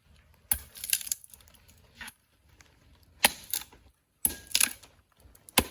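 A series of sharp, separate knocks and snaps, about seven in all, as pieces of firewood are handled, broken and laid onto an outdoor cooking fire to build it up.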